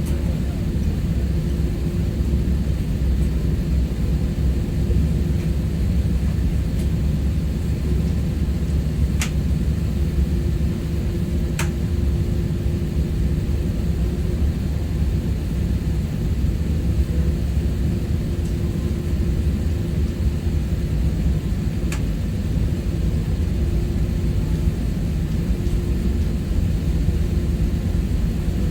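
Steady low rumble of an Airbus A320-214's cabin, its CFM56 engines and airflow heard from inside, with a faint hum and three brief clicks.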